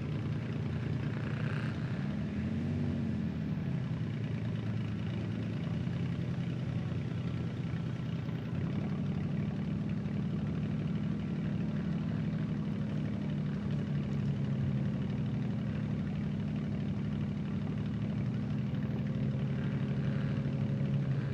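Demolition derby cars' engines idling steadily during a red-flag stoppage, with one brief rev that rises and falls about two to three seconds in.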